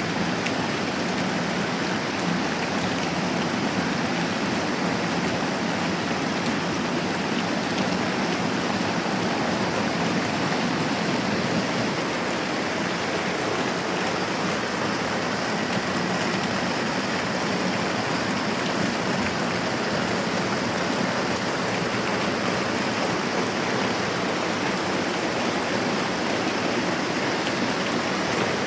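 Moderate rain falling steadily, an even hiss at a constant level.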